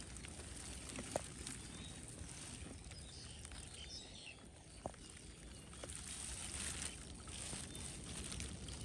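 Faint water sloshing and splashing in a flooded rice field, with a few sharp taps over a steady hiss.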